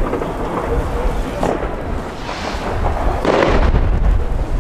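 Distant fireworks booming, with a steady low rumble of wind on the microphone that grows heavier near the end. A few louder bangs come about one and a half, two and a half and three and a half seconds in.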